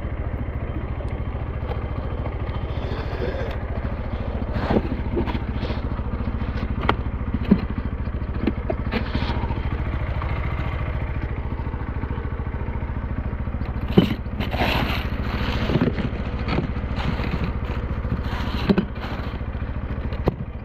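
SYM NH T 200's single-cylinder engine running at a steady pitch, with scattered short knocks and clatter over it, thickest in the second half.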